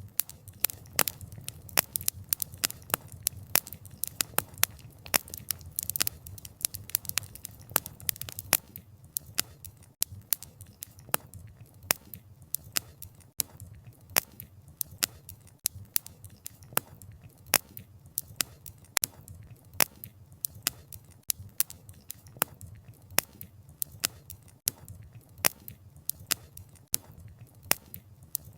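Wood fire crackling, with frequent sharp pops and snaps of burning firewood over the low rumble of the flames. The pops come most densely in the first several seconds.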